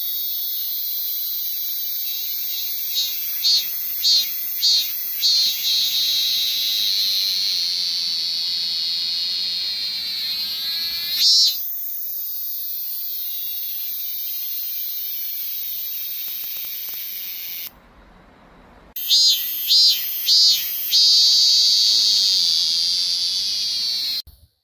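Cicadas singing: a loud, continuous high-pitched buzz, broken by a few short, louder pulsing phrases. The sound drops out for about a second partway through and cuts off suddenly near the end.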